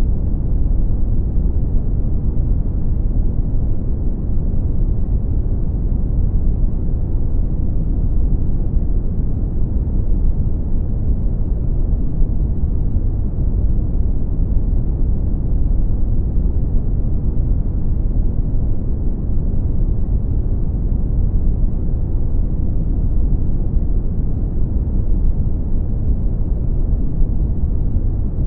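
Brown noise: a steady, deep rumbling hiss with most of its weight in the low end and little above the mid range, unchanging throughout.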